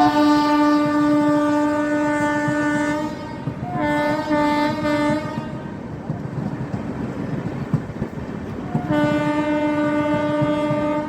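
Train horn blowing three times: a long blast of about three seconds, a shorter broken blast, then another long one near the end. The rumble of the passing train runs underneath.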